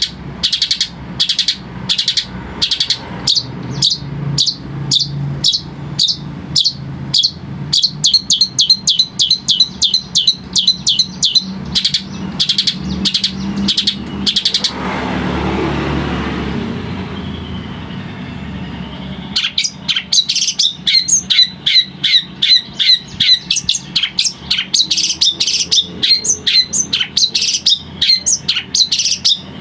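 Long-tailed shrike (cendet) singing: rapid, repeated sharp chattering calls, several a second. About halfway through, the song breaks off while a rushing noise swells and fades over about four seconds, then the calls resume, denser than before.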